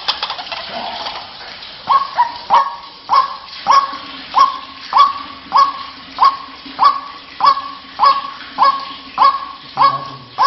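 White-breasted waterhen (ruak-ruak) calling: after a few irregular notes, a steady run of sharp, repeated notes, about one every 0.6 s.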